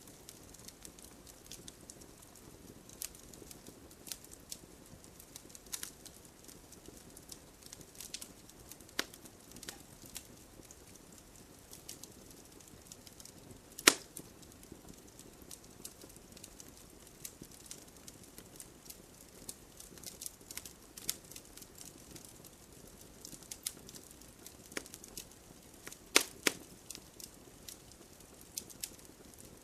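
Wood campfire crackling: scattered sharp pops and snaps over a soft steady background, with one loud pop about halfway through and a quick cluster of pops near the end.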